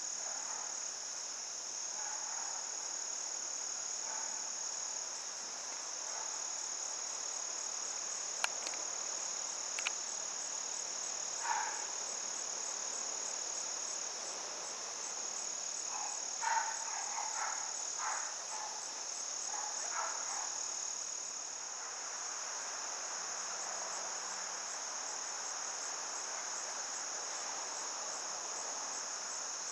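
Steady, unbroken high-pitched insect chorus, typical of crickets or katydids. A few brief sharp sounds stand out over it around the middle.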